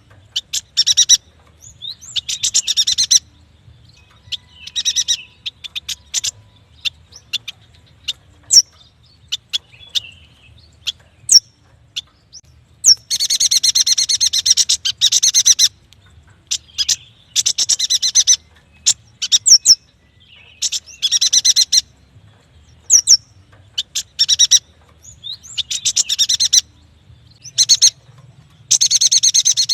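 Yuhina singing: bursts of rapid, high chattering notes, each a second to three seconds long, the longest about halfway through, separated by single sharp chirps.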